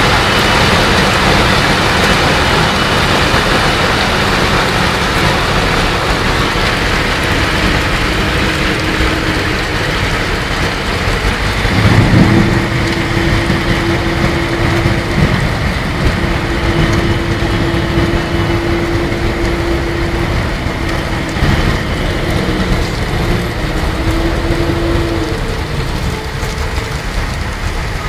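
Hail and heavy rain pouring down steadily in a storm. From about twelve seconds in, a steady mid-pitched tone sounds over it in long stretches of several seconds, with short breaks.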